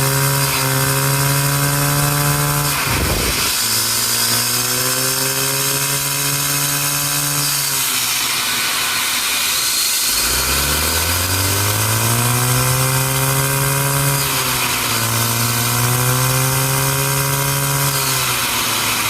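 Small LEGO vacuum-driven turbine revving, its whine falling and climbing again several times: a sharp drop about three seconds in, a slow run-down and spin-up in the middle, and a brief dip near the end, over a steady rush of air.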